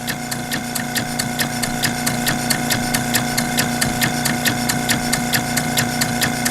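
Stuart Turner walking beam model engine running on compressed air at 3 psi, making a fast, even clicking, about five beats a second, over a steady hum.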